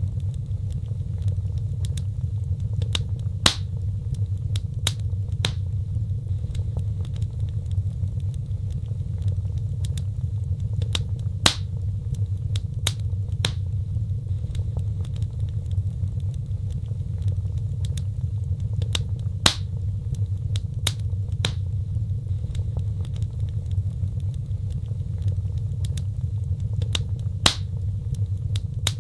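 Wood fire in a fireplace crackling over a steady low rumble of the flames, with frequent small snaps and a louder pop about every eight seconds.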